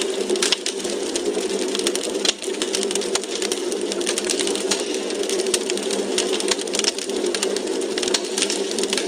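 Wood fire crackling in a fireplace: many irregular sharp pops and snaps over a steady hiss.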